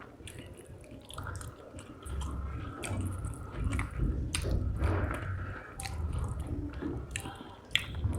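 A person chewing a mouthful of rice with spicy fish curry, repeated chews with small wet clicks.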